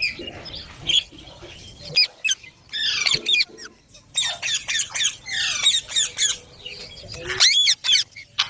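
Green parrots squawking in a string of short, shrill calls. The calls come thickest from about four to six and a half seconds in, with a loud call near the end.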